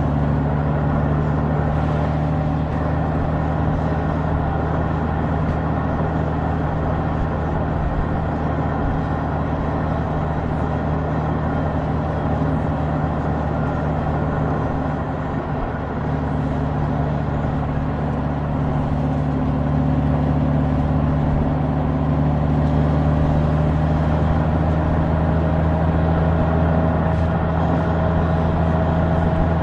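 Honda Gold Wing DCT's flat-six engine running steadily while riding, with wind and road noise. The engine note dips briefly about halfway through, then rises gently near the end.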